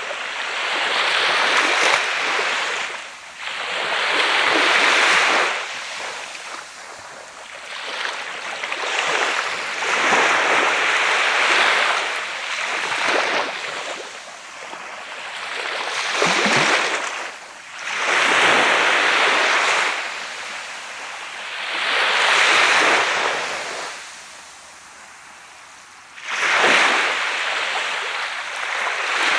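Waves breaking and washing up a sand beach, a new surge every three to four seconds. Near the end there is a quieter lull, then a sharper break.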